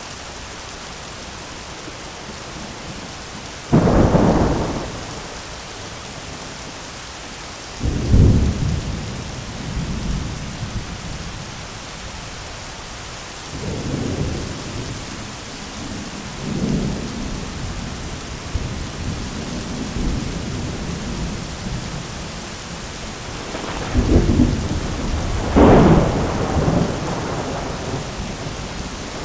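Thunderstorm: steady heavy rain hiss with repeated rolls of thunder, sudden cracks about four and eight seconds in, softer rumbles in the middle and a loud double crash near the end.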